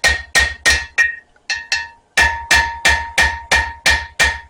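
Hand hammer striking hot spring steel on an anvil, drawing out a taper: steady ringing blows about three a second. About a second in there is a short break with two lighter taps before the steady blows resume.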